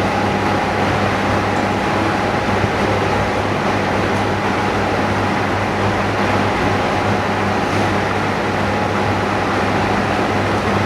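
Steady machine hum with an even hiss over it, unchanging throughout, typical of a running pump or fan motor in workshop equipment.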